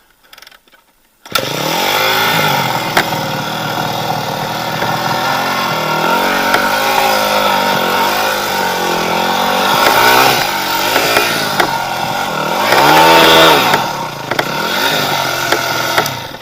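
Enduro motorcycle engine starting about a second in, then revving up and down repeatedly under load while trying to climb a slope of loose leaves over wet soil. The engine is loudest near the end, then cuts off abruptly.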